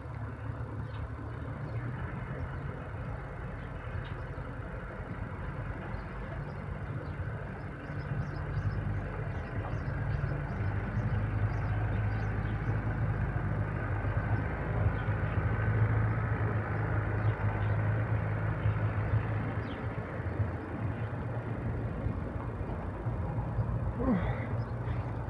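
Road traffic: a low, steady vehicle engine hum with tyre and engine noise that builds about a third of the way in and eases off near the end, as vehicles pass.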